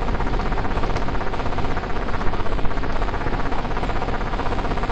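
CNC milling-engraving machine running steadily, its spindle and cutter making a dense, even machining noise.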